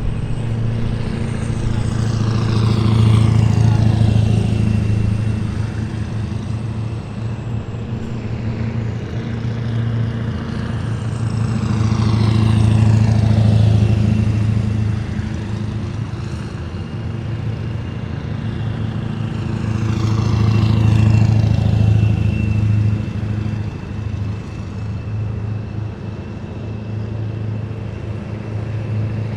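A column of heavy military vehicles drives past one after another, their engines a deep steady hum. The sound swells three times as a vehicle passes close, its pitch falling away as it goes by.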